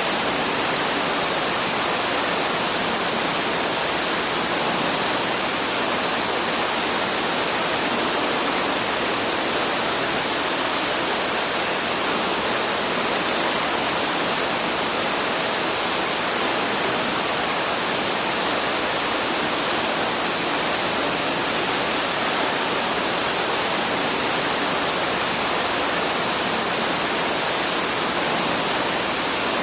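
Waterfall rushing steadily, an even wash of falling water with no change in level.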